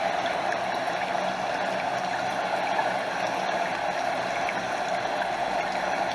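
Stream water rushing and gurgling steadily, with no breaks or sudden sounds.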